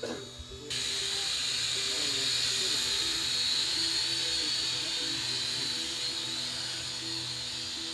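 Small quadcopter drone's propellers whining steadily at a high pitch, starting abruptly just under a second in.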